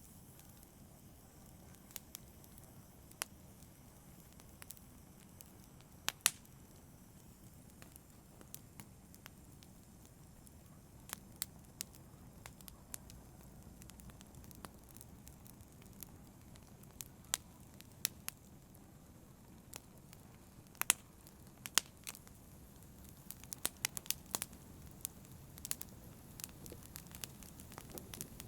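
Wood fire burning: a steady low rumble and hiss with sharp crackles and pops scattered through it, coming thicker and faster near the end.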